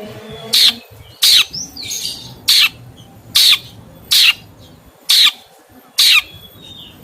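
A bird giving short, loud, harsh calls in a steady series, about one a second, with faint softer chirps between them.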